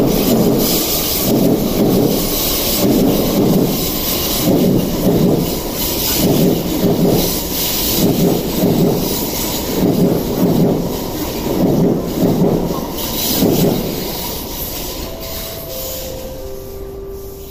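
An East Rail Line electric train passing close by, with a rhythmic rumble pulsing a little more than once a second over a rushing noise. The rumble fades after about fourteen seconds, and near the end a brief whine steps down in pitch.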